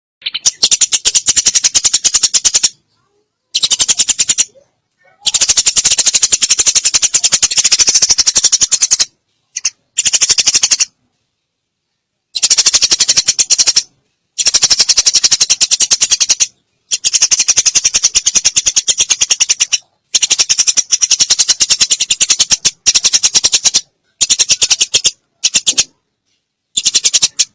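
Eurasian tree sparrow chattering: rapid strings of sharp chirps in bursts of one to four seconds, separated by short silences.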